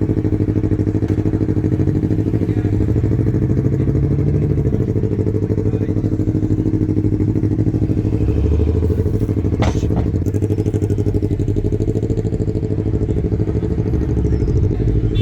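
A car engine idling close by with a steady, loud, low rumble, and one sharp click about ten seconds in.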